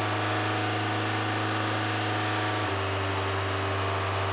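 Rover 416's four-cylinder petrol engine held at a fast idle of about 2,900 rpm for the MOT emissions test, running steadily. There is a slight shift in tone about two and a half seconds in. The exhaust is blowing at the front flexi pipe.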